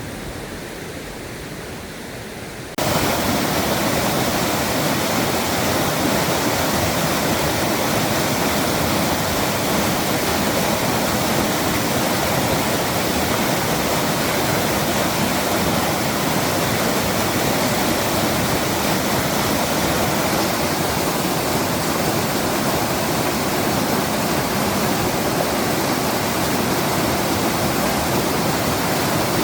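Rain-swollen mountain stream rushing hard in flood, a steady roar of water that jumps sharply louder about three seconds in.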